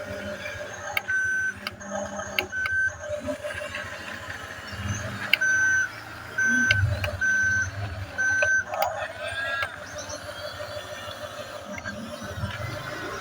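Toy RC bulldozer running with its sound effects on: a steady mechanical engine-like drone, with a reversing beep repeating about once a second for several beeps in the middle.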